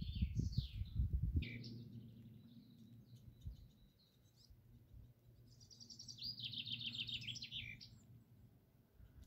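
A songbird singing in the woods: short high phrases early on, then a fast trill about six seconds in that falls in pitch. Footsteps rustling on dry ground during the first second or so.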